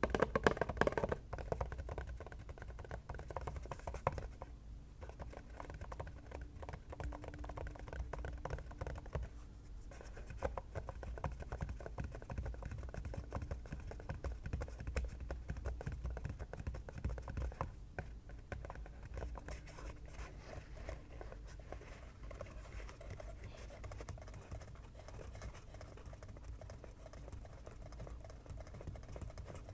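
Fingers tapping quickly and lightly on an object in a dense, steady patter, loudest in about the first second.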